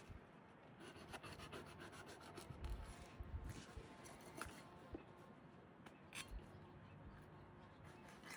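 Faint rubbing and scratching with scattered small clicks, and a soft low thump about three seconds in.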